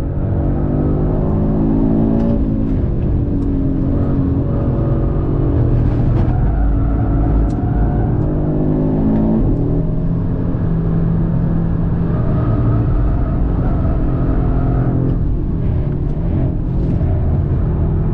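Audi RS3's turbocharged five-cylinder engine pulling hard on track: the revs climb several times and drop sharply at each upshift, then hold steadier from about ten seconds in.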